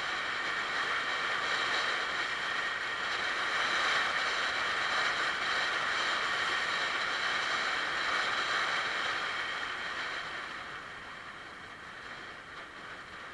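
Riding noise from a Yamaha Axis 90 two-stroke scooter on the move: steady wind rush over the microphone with the scooter's running sound underneath, dropping off over the last few seconds.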